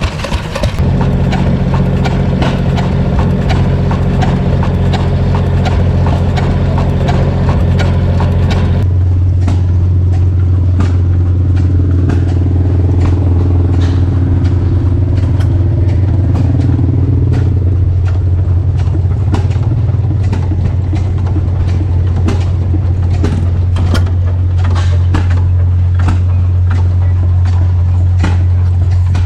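An engine running steadily with a strong low hum. About nine seconds in the higher hiss drops away, and sharp clicks repeat irregularly from then on.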